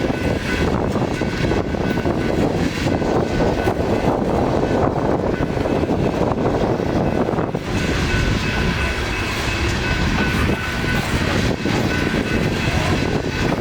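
A coal train's freight cars rolling past in a steady, continuous rumble and rattle, with a few faint steady high-pitched tones over it.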